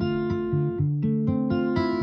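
A guitar playing chords, picked in a quick, steady rhythm as the chords change.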